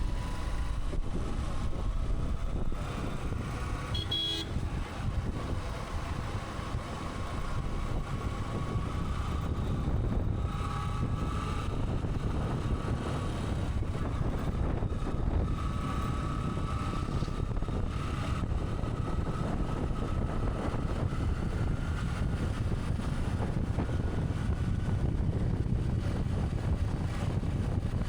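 Road riding on a motorcycle: steady engine and road rumble with traffic around, and a brief horn toot about four seconds in.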